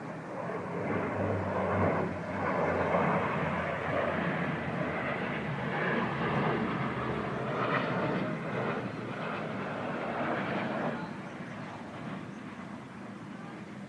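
Engine noise of something passing by, a rushing rumble that builds about a second in, holds for most of ten seconds, and fades away near the end.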